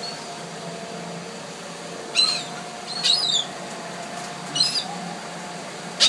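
Birds calling: three short, sharp, high-pitched calls, about two, three and four and a half seconds in, over a steady background hum.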